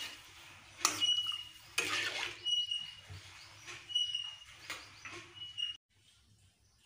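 A bird chirping, short single-pitched notes about once a second, mixed with a metal ladle scraping and knocking in a metal kadai. The sound cuts off abruptly near the end.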